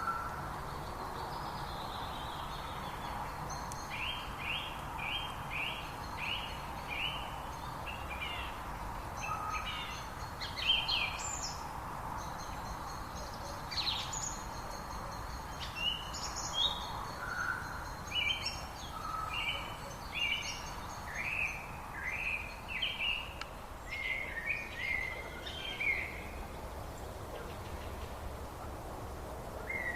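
Songbirds singing, with runs of short repeated chirps and some higher calls over a steady background hiss.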